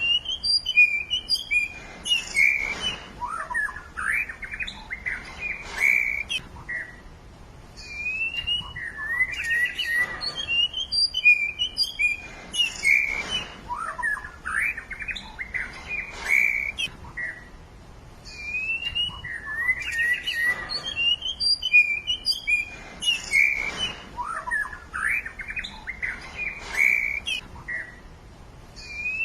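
Songbirds chirping and singing in quick, sharp notes and trills. The same stretch of song repeats about every nine seconds, as if looped, with a brief lull between repeats.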